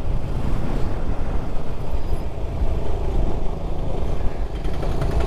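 Motorcycle being ridden on the road: a steady engine and road noise with heavy wind rumble on the rider's microphone.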